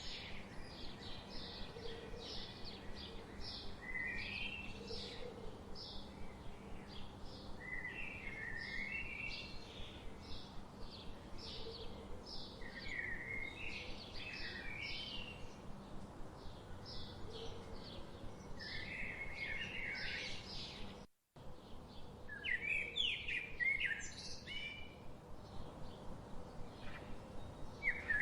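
Forest birdsong: several birds singing, with a rapid string of short high notes and repeated chirping phrases lower down, over a faint steady background hiss. The sound cuts out completely for a split second about two-thirds of the way through.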